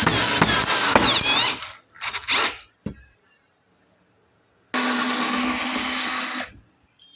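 Electric power tool running in short bursts, started and stopped several times, with a pause of almost two seconds in the middle.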